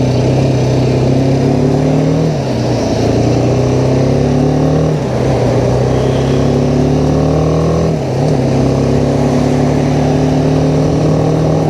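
BMW G310R's single-cylinder engine accelerating through the gears: its pitch climbs steadily, then drops at upshifts about two, five and eight seconds in.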